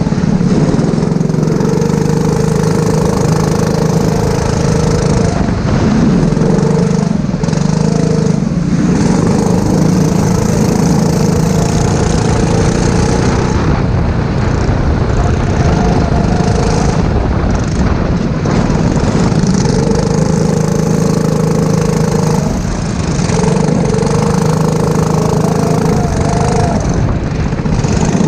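Racing go-kart engine running hard on track. Its pitch holds steady for stretches and drops several times as the kart lifts off and picks up again.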